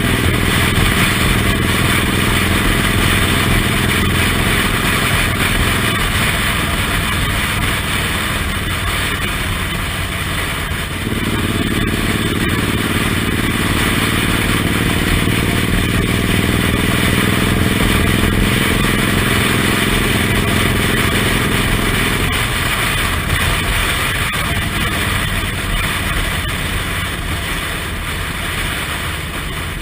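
Suzuki Intruder M1800R's big V-twin engine running under way, heard from the pillion with a dense rush of wind over it. The engine note climbs about a third of the way in and drops back about three-quarters of the way through, as the bike changes speed.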